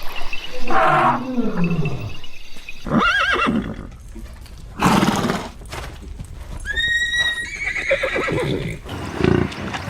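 A horse neighing and whinnying in several separate calls, some falling and some wavering in pitch.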